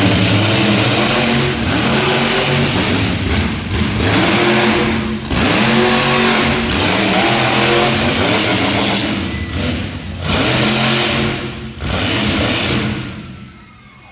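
Monster truck engine revving hard, its pitch rising and falling over and over, with several brief drop-outs as the throttle is lifted. The engine noise falls away near the end.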